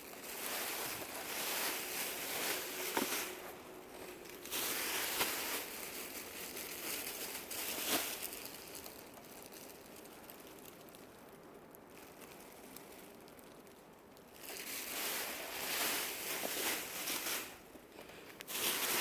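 Rustling and crinkling as dresses are handled and moved about, in several spells with a quieter stretch in the middle.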